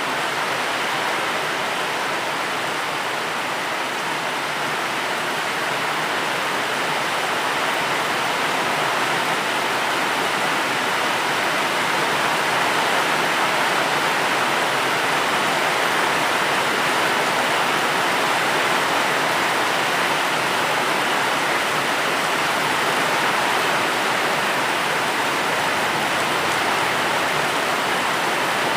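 Steady rain: an even, continuous hiss with no separate drops standing out.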